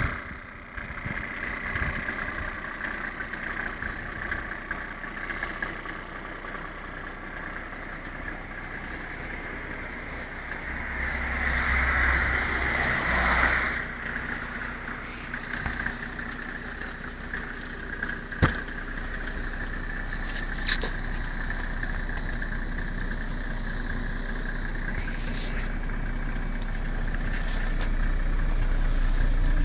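Mercedes-Benz W140 300 Turbodiesel engine being cold-started in deep frost: the starter cranks for about two and a half seconds, about eleven seconds in, and the cold diesel catches and settles into a low idle that grows steadily louder, with a few sharp clicks along the way.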